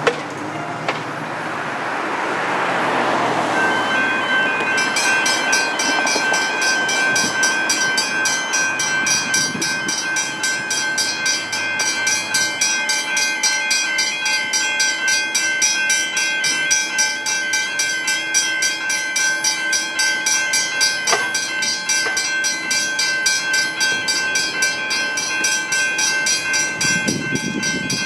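Level crossing warning bells, among them a Westinghouse first-generation hybrid bell, start ringing a few seconds in: a steady ringing tone joined by rapid, evenly repeated strokes that keep going, signalling that the crossing has activated for an approaching train. Before that, a road vehicle passes.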